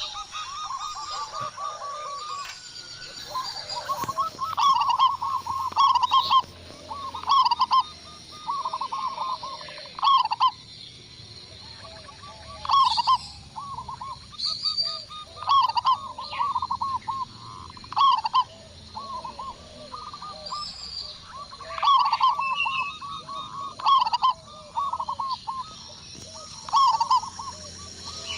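Zebra doves (perkutut) singing: repeated phrases of quick, rippling coos, a new phrase every second or two, with short high chirps mixed in.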